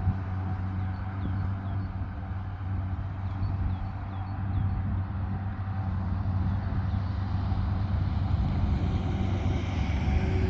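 Tractor diesel engine running steadily with a low, even drone.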